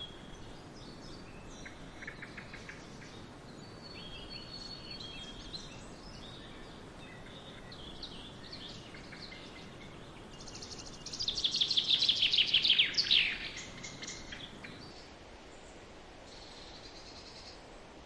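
Wild songbirds calling and chirping over a steady outdoor hiss, with one loud, rapid trill of notes falling in pitch about eleven seconds in, lasting about two seconds.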